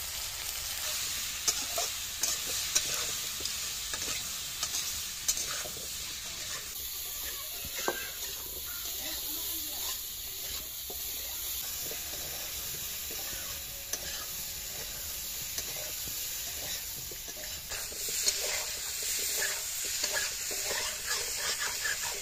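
Potato chunks and spices sizzling as they fry in a black iron kadai, with a steady hiss. A metal spatula scrapes and knocks against the pan now and then as it stirs them, more busily near the end.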